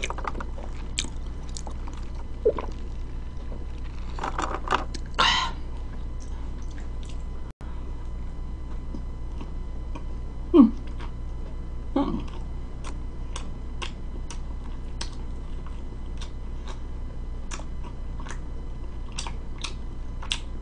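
A person chewing pizza close to the microphone: a steady stream of small wet mouth clicks and smacks, with two short hummed vocal sounds about ten and twelve seconds in, over a steady low hum.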